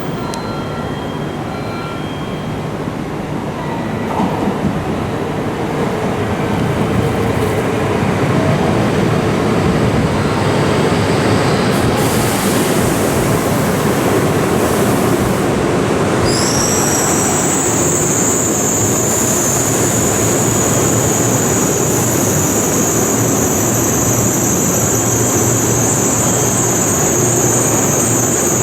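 Running noise of an N700 series Tokaido Shinkansen train heard from inside the passenger cabin: the rumble and rush of wheels and air grows louder over the first ten seconds as the train picks up speed. About sixteen seconds in, a high whistle rises briefly, then holds steady over the running noise.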